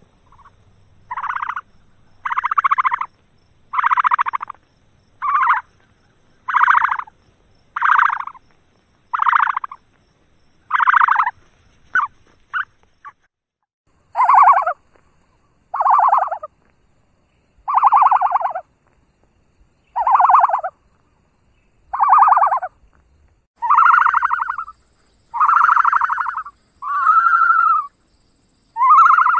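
A bird calling over and over: about twenty short, buzzy calls, one every second and a half or so. A few brief clicks come partway through, and some calls slide down in pitch at their ends.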